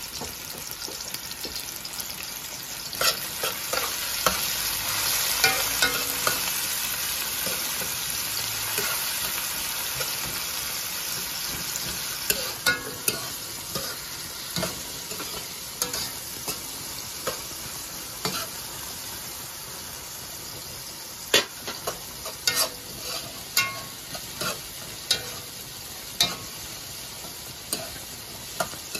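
Onions and hot pepper sizzling in oil in an aluminium pot, with a spoon knocking against the pot now and then. The sizzle swells a few seconds in, then eases, and the knocks come in quick clusters in the second half.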